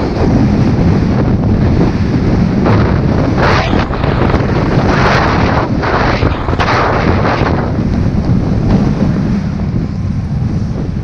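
Wind buffeting the microphone, a loud rumble with repeated rushing, hissing surges.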